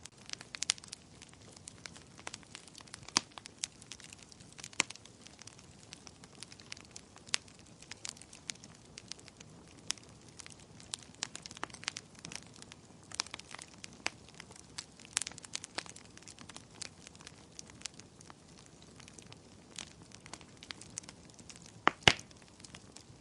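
Wood fire crackling in a fireplace: irregular sharp pops and snaps over a faint steady hiss, with the loudest double pop near the end.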